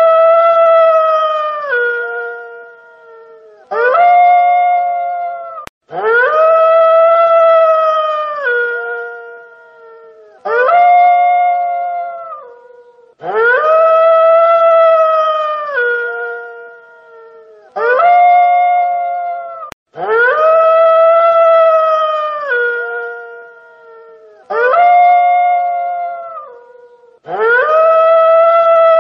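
A wolf howling over and over, about eight long howls that start every three to four seconds. Each is one held note that drops to a lower pitch just before it ends.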